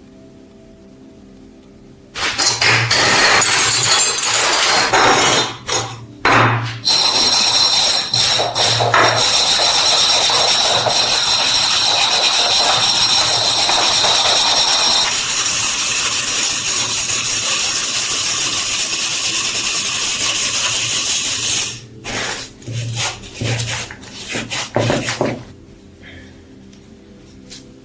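A power tool running under load with a steady high whine, working the old sprayer's metal parts. It starts about two seconds in, cuts out briefly twice, changes tone midway, and ends in a few short spurts.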